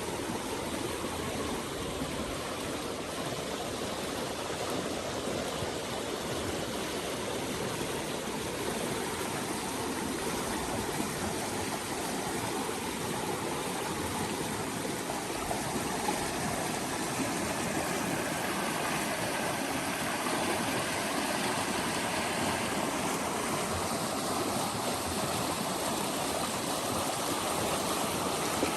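Stream water flowing and splashing steadily, growing a little louder about halfway through.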